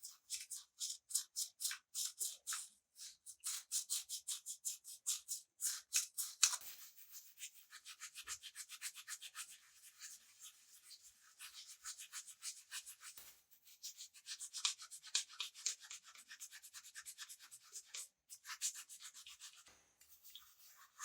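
Hand abrasive work on a workpiece: fast back-and-forth scraping strokes, several a second, with a few brief pauses.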